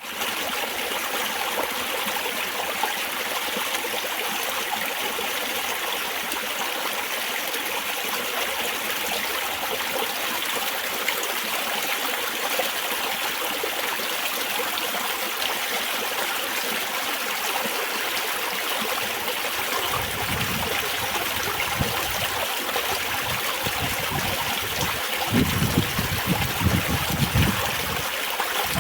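Spring water trickling steadily over stones in a small stream. From about two-thirds of the way in, irregular low rumbles break in, stronger near the end.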